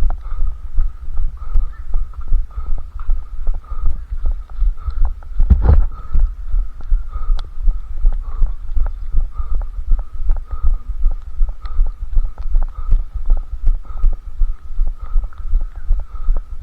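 A runner's footfalls thudding steadily, about three strides a second, carried through the body into a head-strapped camera. A faint steady high hum sits under them, and one heavier knock comes about six seconds in.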